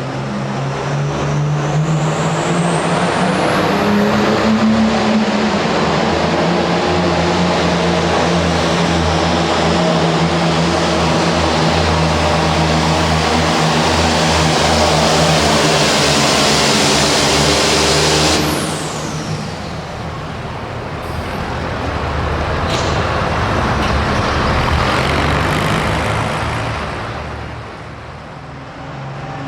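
Super Farm pulling tractor's turbocharged diesel engine under full throttle during a pull, a steady drone with a high whine climbing early on. About 18 seconds in the throttle comes off, and the engine drops away with a falling whine. It swells again briefly, then eases off near the end.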